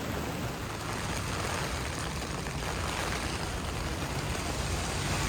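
Steady city street noise: an even hiss with the low rumble of traffic.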